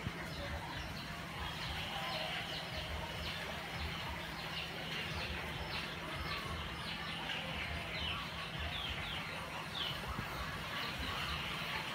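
Small birds chirping in the background: many short, quick downward chirps, over a steady low hum.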